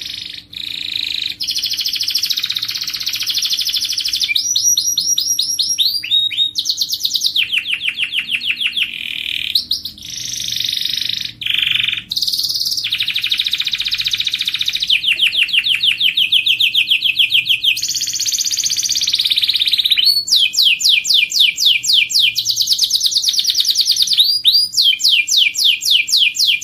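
Domestic canary singing a continuous song of high-pitched trills. Each phrase is a fast run of one repeated note, and the bird switches to a new phrase every one to three seconds.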